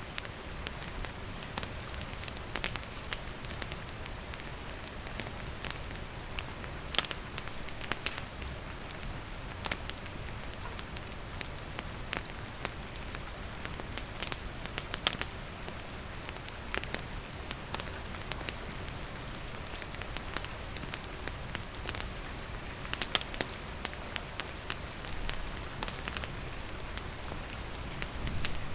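Steady rain falling on surfaces, with a wood campfire crackling through it in scattered, irregular sharp pops.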